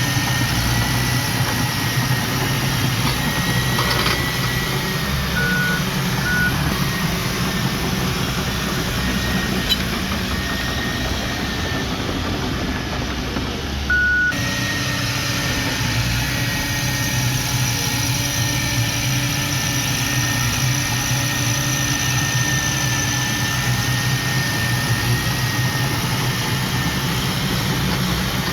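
Heavy diesel earthmoving machinery running steadily, with a thin high whine over the engine drone and three short beeps.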